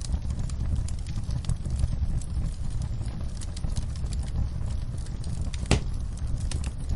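Campfire burning with a low steady rumble and scattered crackles and pops of burning wood, one louder pop about five and a half seconds in.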